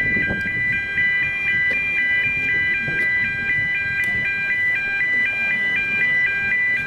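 Electronic warning alarm sounding continuously, a high two-tone pattern switching pitch about four times a second.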